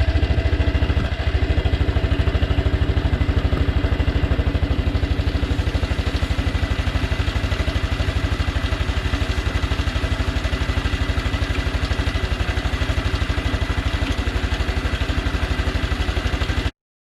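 Honda Cub Pro's single-cylinder four-stroke engine running steadily at a constant speed, with an even rapid pulse. The owner presents it as an abnormal engine noise (異音). It cuts off abruptly near the end.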